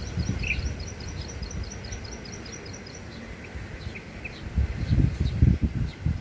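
A small wild songbird of the kind called burung klik-klik giving a fast run of short, high chirps, about five a second, that stops about three seconds in, followed by a few scattered notes. A low rumble swells and is loudest near the end.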